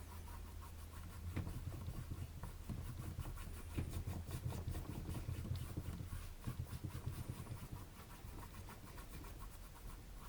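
A paintbrush dabbing paint onto a canvas: faint, irregular soft taps and brushing strokes that trail off near the end.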